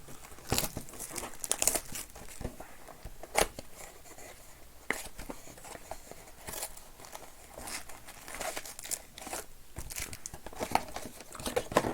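Trading-card pack wrappers being torn open and crinkled by hand: irregular crackles and short tearing sounds.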